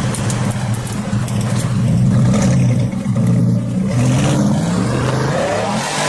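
Sports car engine running steadily, its pitch wavering with light revs that rise briefly in the second half.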